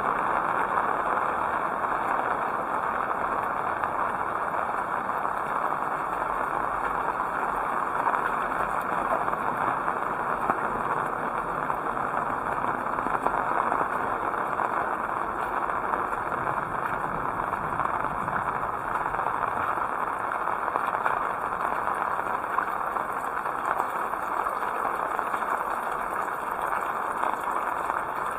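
Heavy rain falling steadily, an even hiss and patter without let-up.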